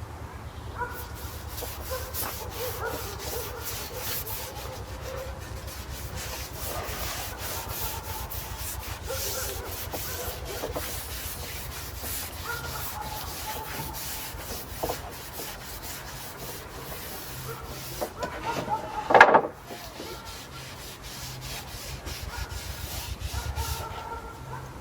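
Oil brush strokes rubbing over larch planks, repeated scraping sweeps of bristles on wood. A short, loud animal cry cuts in about three-quarters of the way through.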